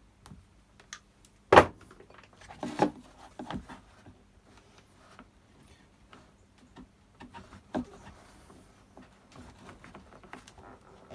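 Scattered clicks and knocks of small parts and hand tools being handled during a repair, the loudest a sharp knock about a second and a half in, with another near three seconds and a few more about eight seconds in.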